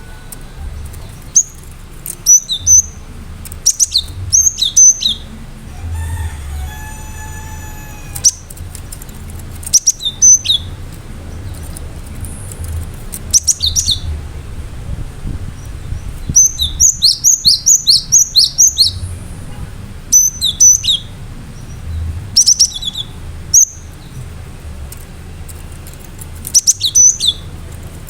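Cinereous tit (gelatik batu) singing: loud, short phrases of sharp, high down-sweeping whistles repeated every few seconds, with a fast run of about ten notes a little past halfway. About six seconds in there is a longer, lower drawn-out call, and a steady low hum runs beneath.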